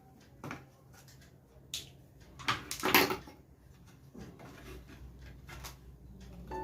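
Scattered clicks and knocks of plastic parts being handled as an LCD monitor is taken apart, with a louder scraping rattle about three seconds in.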